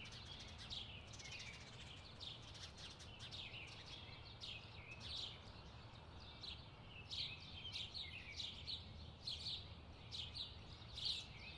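Birds chirping in a busy chorus of short, quick chirps, a little denser in the second half, over a faint low hum.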